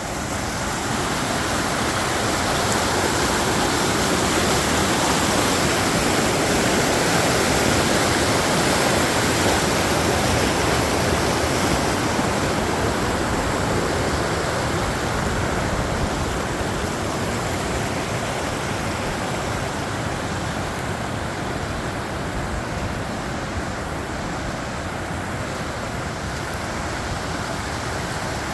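Rushing creek water, a steady loud noise that swells over the first several seconds and then slowly eases.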